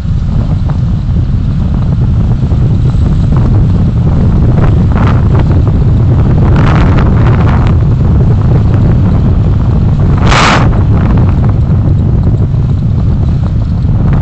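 Loud, steady wind and road rumble from a vehicle on the move, with wind buffeting the microphone. A short hiss cuts through about ten seconds in.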